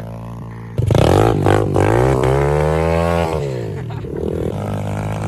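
Apollo pit bike engine revving: it jumps in loudness about a second in, its pitch sweeping up and back down over a couple of seconds, then running lower and steadier.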